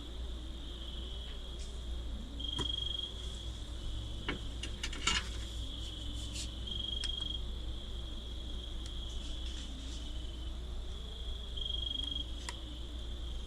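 A chorus of night crickets chirring steadily, swelling into a louder trill three times. There are a few short clicks and crackles, most of them around five seconds in.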